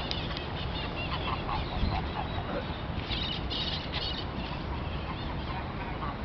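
Geese honking, several short calls with a cluster about three seconds in, over a steady low rumble.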